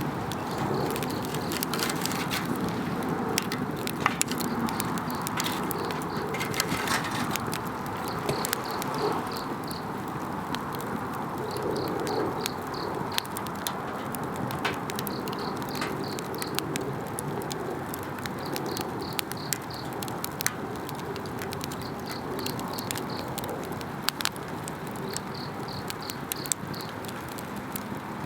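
Wood campfire burning with a steady hiss and irregular sharp crackles and pops, over insects chirping in high pulsed runs that come and go.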